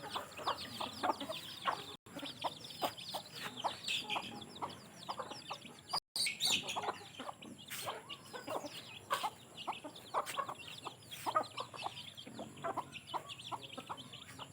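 Hens clucking while their chicks peep constantly in short, high, falling cheeps, broken by two brief silences.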